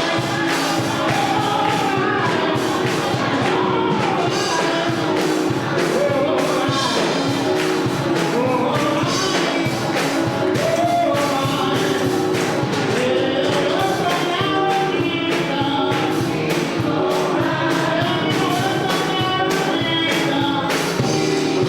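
Live gospel music: a choir singing over instrumental backing with a steady percussion beat.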